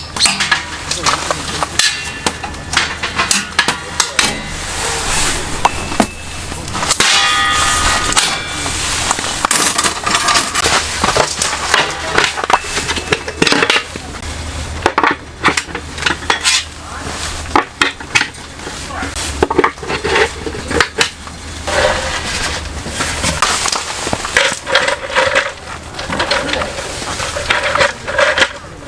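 Irregular knocks, clinks and clatter of camping gear being handled, with metal now and then ringing briefly, as from pots and utensils.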